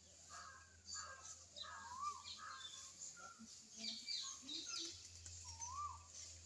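Several birds calling: a mix of short chirps and higher twitters, with a wavering call repeated twice.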